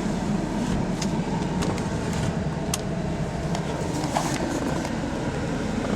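A 2004 Dodge Ram 1500's 5.7-liter Hemi V8 idling at a standstill, heard from inside the cab as a steady low hum, with a few faint clicks.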